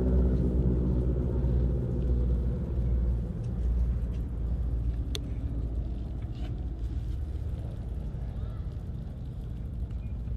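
Steady low rumble, with a humming tone that fades away over the first two seconds or so and a single sharp click about five seconds in.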